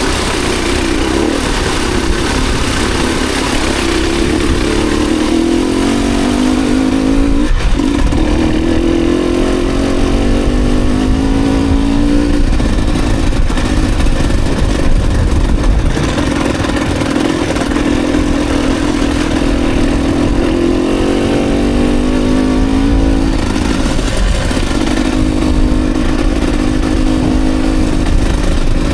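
Dirt bike engine revving up and dropping back over and over as it is ridden along an enduro trail, the pitch climbing and then falling at each gear change or throttle lift. Steady wind and track noise run underneath.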